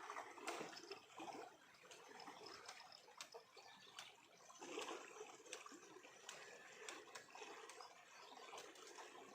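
Faint trickling and running water, with scattered small clicks.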